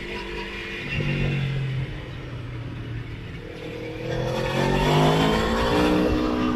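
Motorcycle engine under way, holding steady revs, then rising in pitch and getting louder from about four seconds in as the bike accelerates.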